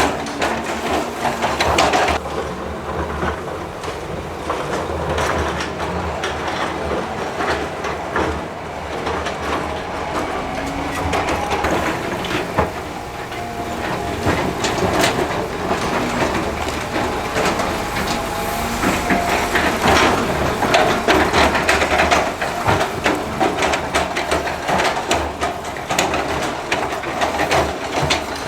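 Heavy diesel construction machinery working rock, its engine running steadily under dense, irregular clanking, scraping and crunching of stone and steel.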